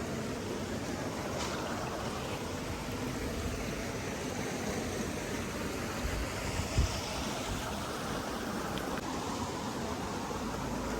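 Steady rush of flowing water, with one brief low thump about two-thirds of the way through.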